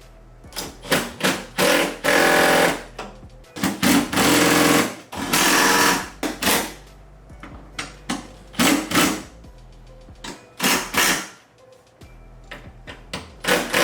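Handheld power driver running bolts in during the reassembly of a Toyota Prius, in repeated short bursts about a second long with brief pauses between them.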